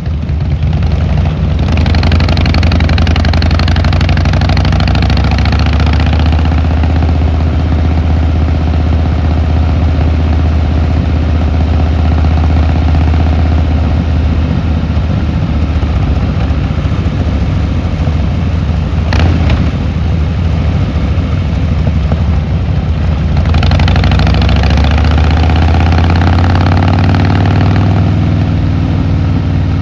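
Harley-Davidson Fat Boy Lo's V-twin engine and exhaust under way, pulling up in rising pitch twice, about two seconds in and again about three-quarters through, and running steadily in between. One sharp click about two-thirds of the way through.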